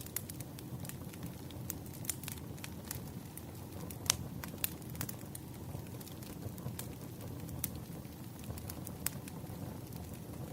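Campfire burning: irregular wood crackles and pops over a low steady rumble, with one sharper pop about four seconds in.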